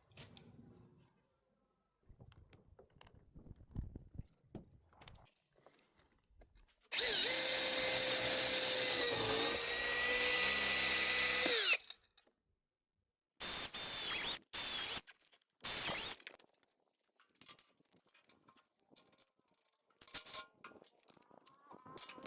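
Power drill running for about five seconds, its motor pitch dipping briefly under load, then three short bursts of the trigger. Faint clinks and handling of parts before and after.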